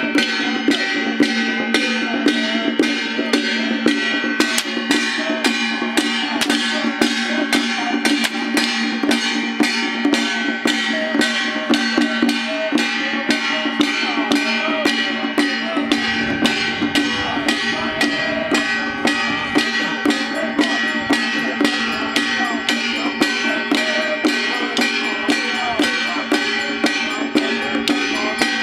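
Temple procession music: percussion beating a steady rhythm of about two and a half strikes a second over continuous held tones.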